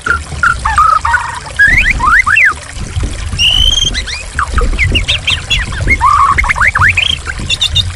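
White-rumped shama singing a varied song of clear whistles and fast rising and falling sweeping notes over steadily trickling, splashing water.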